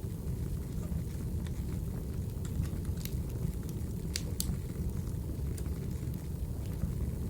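Crackling wood fire: a steady low rumble of burning logs with scattered sharp pops, the loudest of them about three and four seconds in.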